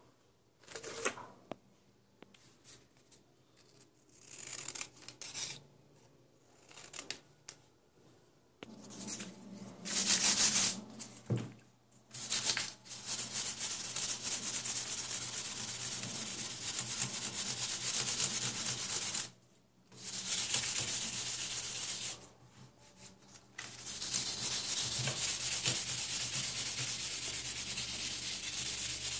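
Car grille being sanded: long stretches of steady, scratchy sanding noise that stop briefly twice. Before that come a few seconds of short scrapes and handling knocks.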